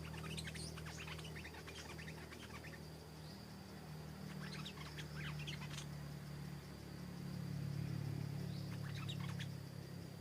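Stripe-throated bulbul singing in three bursts of quick, bubbly chirping notes. Under it runs a steady low hum that swells in the second half, with a thin steady high tone throughout.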